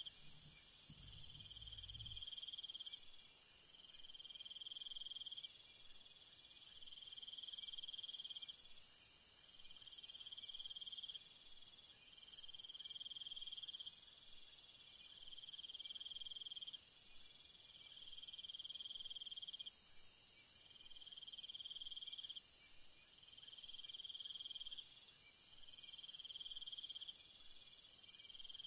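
Night insect chorus of crickets: a steady, high, shrill trill, over which a lower call repeats about every two and a half seconds, each call lasting about a second and a half. A brief low rumble comes in the first two seconds.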